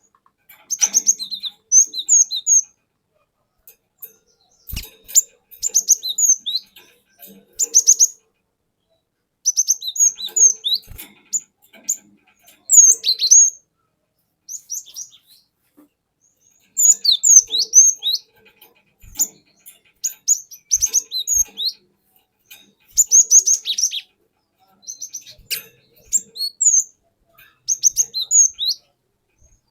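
Cinereous tit (glatik batu) singing: quick runs of high chirps and short whistles in bursts of a second or two, repeated with brief pauses between them.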